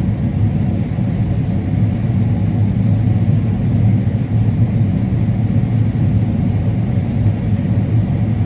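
Combine harvester running steadily under load while harvesting corn: a constant low rumble.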